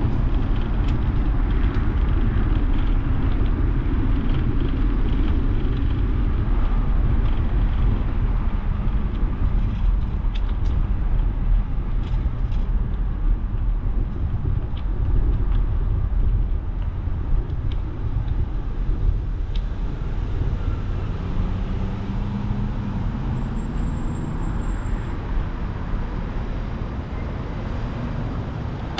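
Wind and road noise from a bicycle ride along a city street, with car traffic passing; a vehicle's engine hum rises briefly about two-thirds of the way through.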